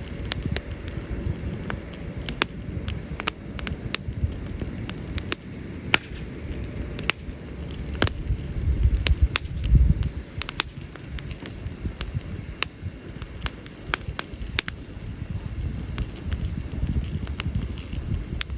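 Burning firewood in a campfire crackling, with irregular sharp pops over a steady low rumble that swells briefly near the middle.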